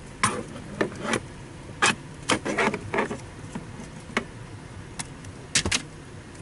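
Irregular sharp clicks, taps and rattles of hands working with tools and wiring, about a dozen in six seconds, with a cluster of them near the middle and a loud double knock near the end.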